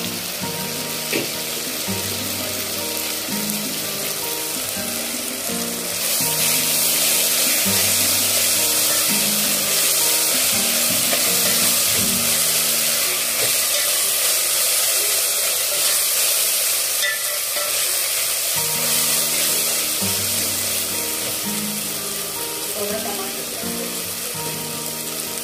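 Methi leaves and onions sizzling as they fry in oil in an open aluminium pot, being stirred. The sizzling grows louder from about six seconds in until about eighteen seconds. Light background music plays through most of it.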